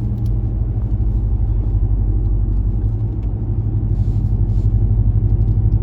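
Exhaust drone heard inside the cab of a 2019 Ram 1500 Rebel's 5.7 Hemi V8, running through a B2 Fabrication muffler and resonator delete while cruising in MDS cylinder-deactivation mode on four cylinders. It is a steady low hum with a fast, even pulse.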